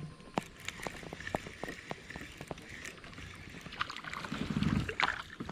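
Irregular light clicks and taps of fishing tackle and a kayak hull, with faint water sloshing, as a small fish is reeled in and landed; a louder low rumble of handling comes about four to five seconds in.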